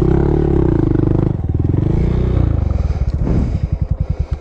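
Small single-cylinder four-stroke engine of a Honda Monkey motorcycle, revved up and down, then settling to a slow putt-putt idle before cutting off at the very end.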